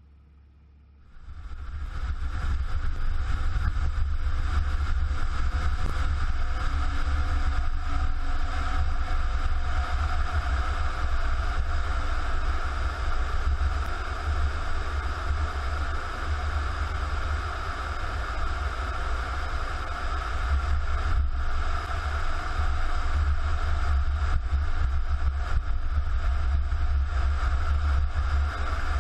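Vehicle driving: a steady engine and road-noise rumble with wind noise, which starts abruptly about a second in.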